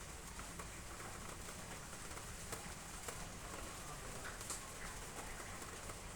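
Steady rain falling, with a few sharper, louder drips now and then.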